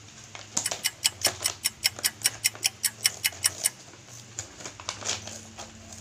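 A quick, even run of sharp clicks, about five a second, lasting about three seconds, followed by a few scattered, fainter clicks.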